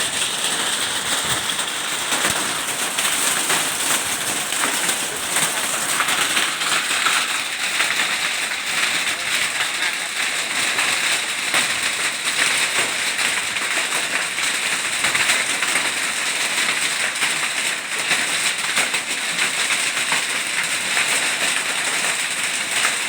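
Hailstones and heavy rain pelting down, a steady dense clatter of countless small impacts.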